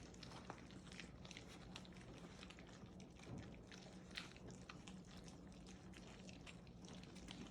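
Faint wet smacking and lapping of young puppies eating soft mushy food from a tray: many small, irregular clicks over a steady low hum.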